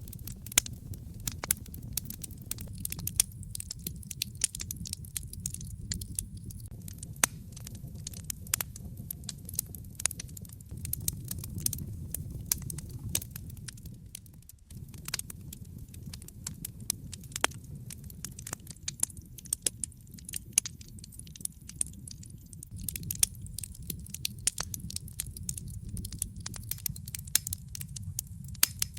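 Wood fire in a fireplace crackling, with frequent irregular sharp pops and snaps over a low steady rumble of the flames. The sound drops out for a moment about halfway.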